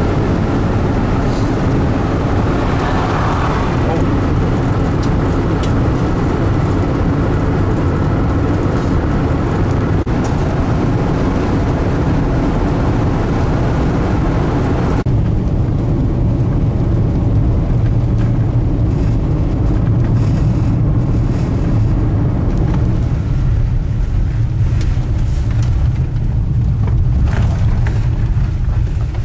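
Steady road and engine noise of a 1984 Volkswagen Westfalia camper van on the move, heavy and low, with an abrupt change in tone about halfway through.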